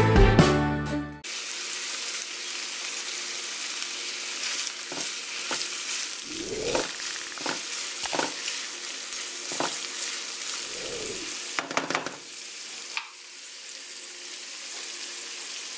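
Sliced hot dog sausage and onion sizzling steadily in a frying pan, with short scrapes now and then as they are stirred. Intro music cuts off about a second in.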